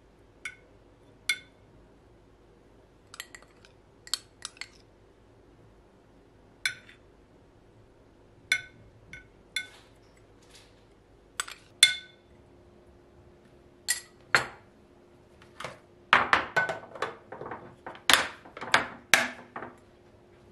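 Dishes clinking: single sharp clinks of glass or ceramic tableware being handled, each with a short ring, spaced a second or two apart, then a busier run of clattering near the end.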